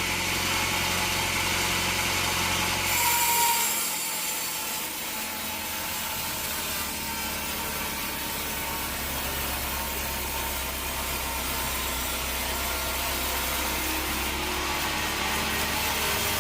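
Band sawmill machinery running with a steady drone. About three seconds in there is a brief louder burst of hiss, after which the drone settles into a different, steadier hum.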